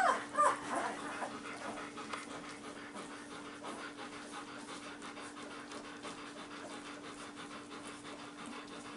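Shiloh Shepherd panting rapidly and steadily, with a few high puppy squeaks in the first second. A faint steady hum runs underneath.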